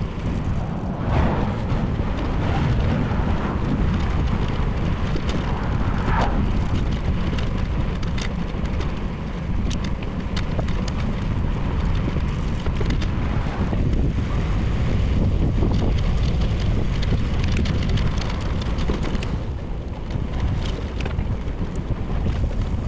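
Wind buffeting the microphone of a bicycle-mounted action camera while riding: a steady, dense low rush with a few faint clicks and ticks.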